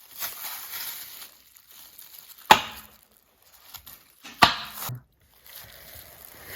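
Knife cutting through Serrano ham: a short scraping slice, then two sharp chops of the blade against the cutting board about two seconds apart.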